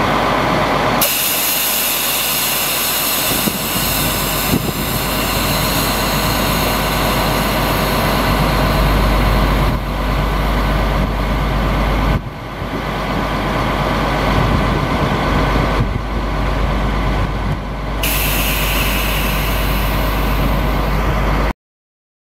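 Chevrolet C7500 ladder truck's engine running steadily, with a loud hiss that starts suddenly about a second in and again near the end. The sound cuts off abruptly just before the end.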